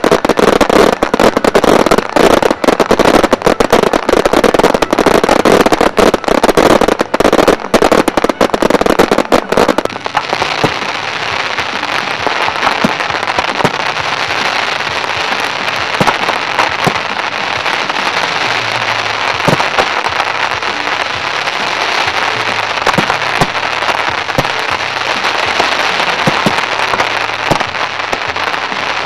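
Fireworks display: a rapid, dense barrage of bangs and crackles for about the first ten seconds. It then changes abruptly to a steady hissing crackle with scattered pops as crackling comets rise.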